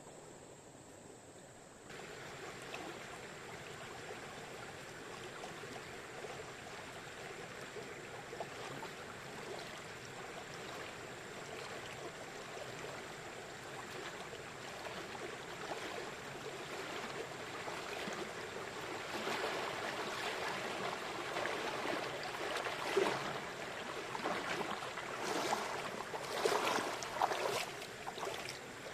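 Running water, a steady rushing that grows gradually louder, with irregular crackles and splashes in the last several seconds.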